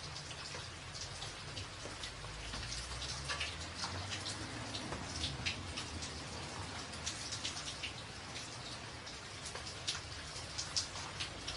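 Rain drumming on a tin roof: a steady patter with many sharp, irregular drop impacts over a low rumble.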